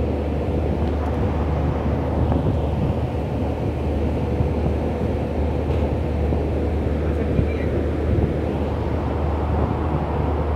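Steady low rumble of a moving passenger train heard from inside the coach: wheels on the rails and the coach's running noise, even throughout with no single loud event.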